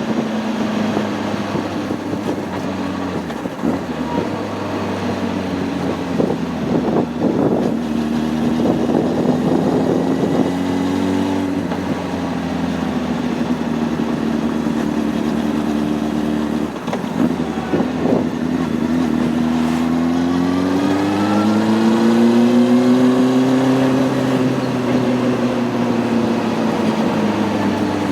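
Honda CB600F Hornet's inline-four engine running while riding, its pitch wavering with the throttle. There are several brief dips along the way, and a long rise in pitch about three-quarters through that then eases off.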